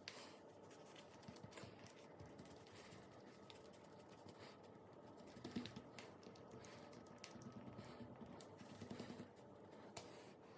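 Faint small clicks and squelches of slime being pressed and spread by hand, with a slightly louder patch about five and a half seconds in and a run of quick clicks near the end.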